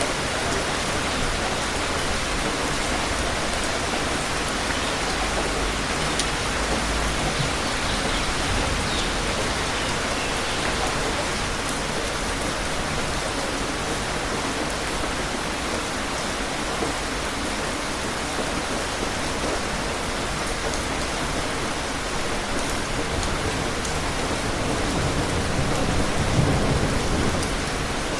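Steady rain falling, an even hiss of drops. A low rumble swells briefly near the end.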